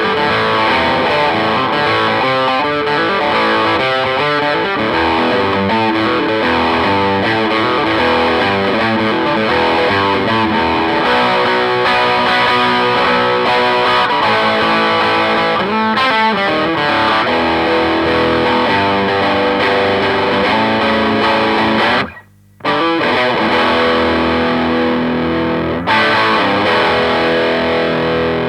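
2009 Gibson Les Paul Studio electric guitar played through a Marshall JTM60 valve amplifier with overdrive, running through fast-changing note lines and chords. The playing stops briefly about 22 seconds in, then resumes, with an abrupt change in the sound about 26 seconds in.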